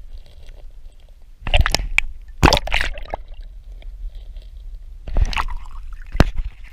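Water splashing and sloshing in a few irregular bursts, with a sharp click near the end.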